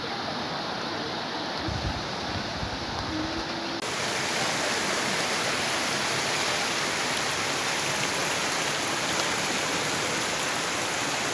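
Floodwater rushing in a steady roar of noise. About four seconds in it abruptly becomes louder and hissier.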